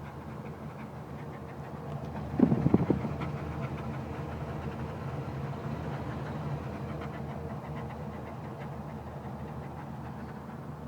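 1980 Buick Electra's V8 idling steadily while warm, which the owner is pretty sure is the Oldsmobile 307. About two and a half seconds in, a brief loud sound with a wavering pitch cuts across the idle.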